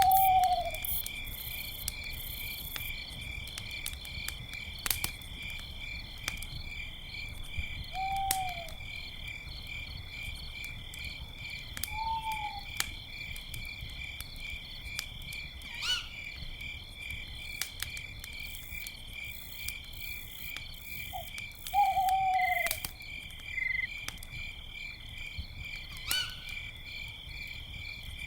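Owl hooting: single short hoots every few seconds, one of them the loudest sound about twenty-two seconds in. Behind them, crickets chirp in a steady high pulsing trill, and a campfire crackles with scattered sharp pops.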